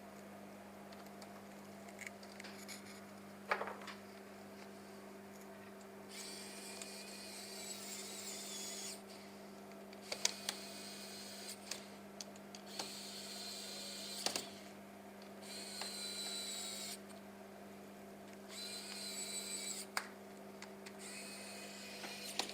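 Small electric screwdriver whirring in four short spells of two to three seconds each, driving screws as the laptop is reassembled, with light clicks of parts being handled and a faint steady electrical hum underneath.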